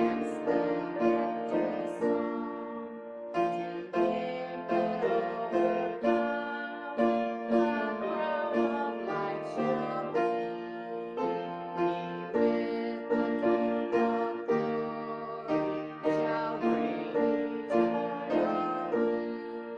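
Piano playing a slow chordal piece, with a new chord or note struck about every second.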